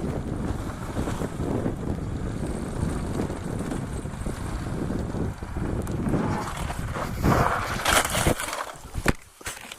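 Wind rushing over the microphone of a moving motorcycle, with a road rumble underneath. About seven seconds in come a few loud sudden bangs and scrapes, the last one about nine seconds in, and then the noise falls away sharply: the sound of the crash and the bike coming to a stop.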